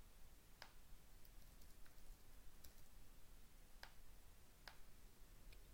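Near silence with a few faint, scattered clicks from a computer being worked as a form is filled in, three of them clearer than the rest.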